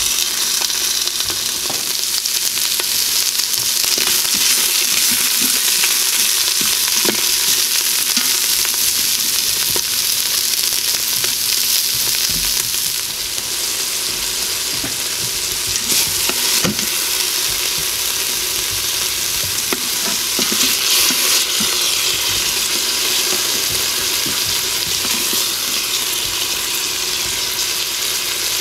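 Sliced onion rings sizzling steadily in hot oil and beef drippings in an Instant Pot's stainless steel inner pot on sauté, with a few light knocks now and then.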